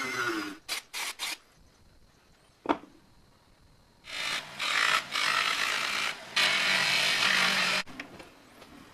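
Rough abrasive rubbing from hand work on a machine part: a few short strokes, a single sharp tap, then about four seconds of steady scraping broken by two brief pauses, stopping near the end.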